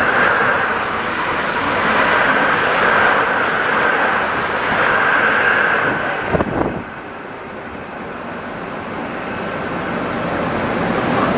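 Rubber-tyred NS-74 metro train running, with a steady rolling rush. About six and a half seconds in there is a knock and the sound drops off sharply, then slowly builds again.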